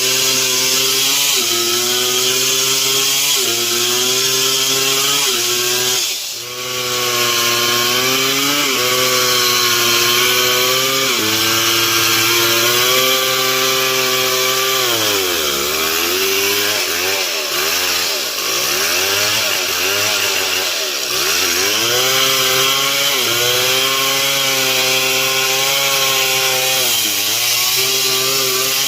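Stihl MS 070 two-stroke chainsaw running at high revs while cutting wood. Its pitch drops briefly about six seconds in, then sags and recovers several times past the middle as the chain bogs down in the cut.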